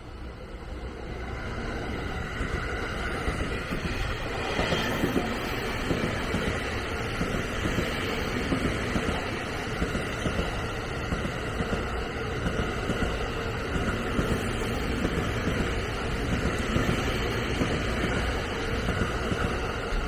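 Train running past on the rails. The sound builds over the first few seconds into a steady rumble, with many quick wheel-on-rail clacks.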